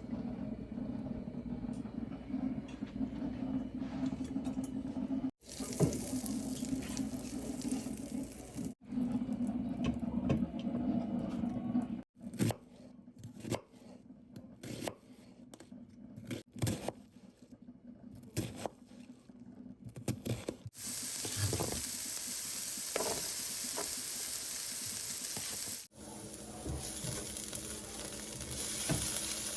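Kitchen sounds of chili being cooked, in several short cuts: a steady hum, then the clicks and knocks of a utensil against a pot, then a steady hiss lasting about five seconds.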